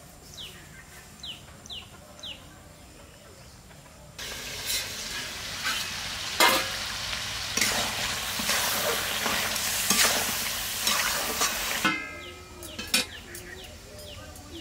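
Duck curry sizzling in a steel wok while a metal ladle stirs it, scraping and knocking against the pan; the sizzling starts suddenly about four seconds in and cuts off about three seconds before the end. Before and after it a bird chirps repeatedly in short rising notes.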